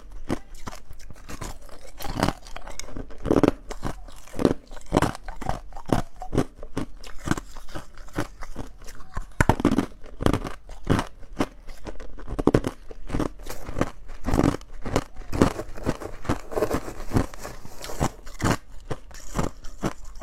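Ice being bitten and chewed close to the microphone: a continuous, irregular run of loud crunches, several a second.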